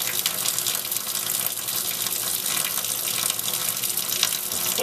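Water running in a steady stream.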